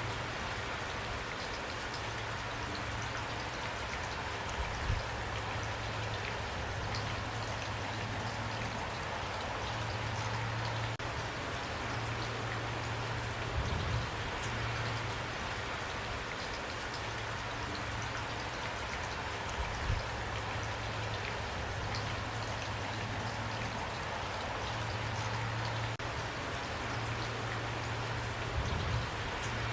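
Steady rain falling, an even dense patter, with a few brief low thumps.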